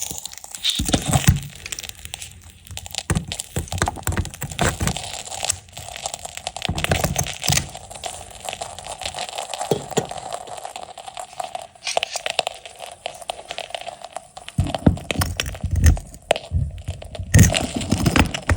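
Wood glue crackling and crunching against a red-hot iron ball, in an irregular run of crackles and pops with occasional low thumps.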